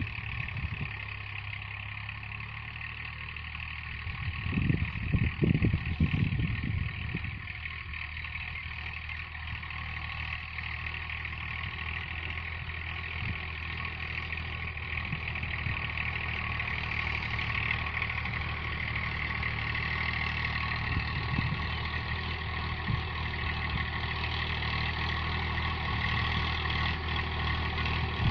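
Massey Ferguson tractor engine running steadily, louder and rougher for a couple of seconds about four seconds in.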